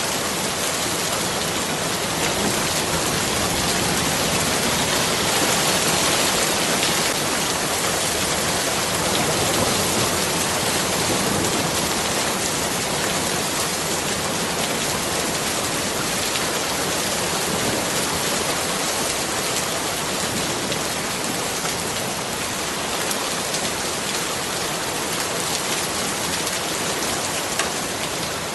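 Steady heavy rainfall, a dense, even hiss of raindrops striking surfaces.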